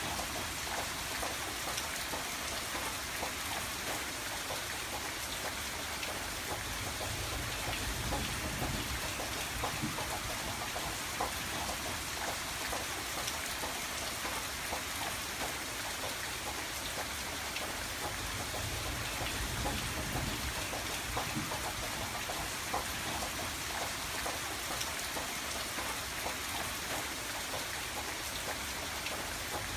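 Steady rain on a window pane: a dense, even patter of drops with scattered sharper taps, over a low rumble that swells and fades.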